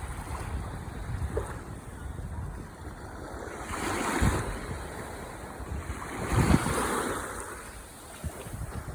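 Ocean waves washing onto the shore, swelling twice as waves break, with wind buffeting the microphone.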